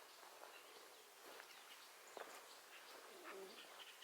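Faint, quiet outdoor ambience with a few soft chicken clucks and scattered small ticks, one low cluck about three seconds in.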